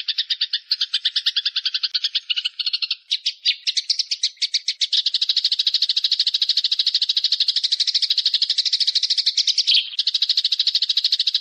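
Songbird calling in a rapid, continuous trill of sharp chirps, stuttering at first and then running as a dense, steady rattle of a dozen or more notes a second, with a brief break near the end.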